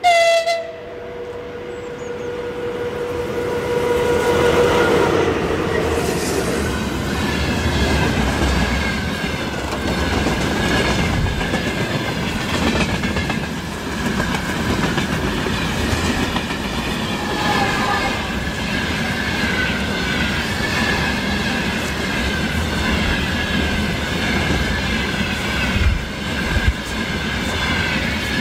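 VL10U electric locomotive sounding its horn in a sudden loud blast, one tone of it held for about five seconds, then the locomotive and its freight wagons rolling past with a rumble and clickety-clack of wheels over the rail joints. A thin, steady high squeal from the wheels runs under the passing wagons.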